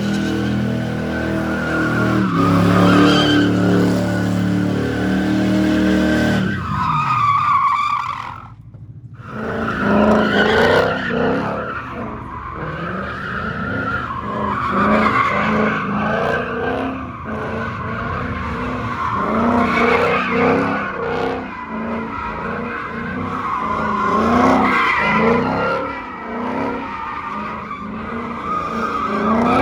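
Car engine held at high revs while the tyres squeal in a drift. About seven seconds in the revs fall away and briefly drop off, then the engine is revved up and down repeatedly with continued tyre squeal.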